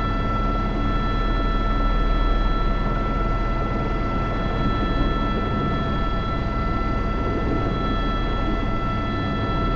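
Airbus H125 (AS350 B3) helicopter in flight, its turboshaft engine and rotors running steadily as heard from inside the cockpit: a constant low drone with a steady high whine over it.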